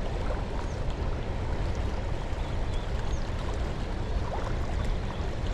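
Steady rumbling outdoor background noise, heaviest in the low bass, with no distinct events.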